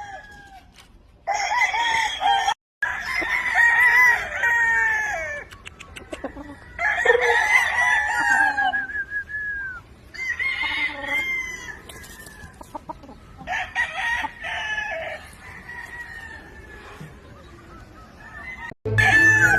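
Gamefowl roosters crowing one after another, several drawn-out crows of about two seconds each, some overlapping.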